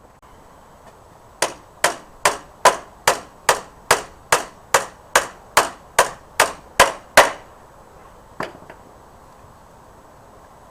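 Hammer blows: about fifteen evenly spaced strikes at roughly two and a half a second, then one more a second later.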